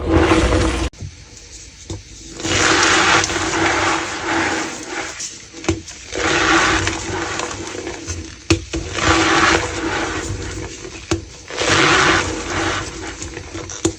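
Gym chalk being crushed, a squeaky crunching like stepping on snow. It comes in several swells of a second or two each, with a few sharp snaps between them.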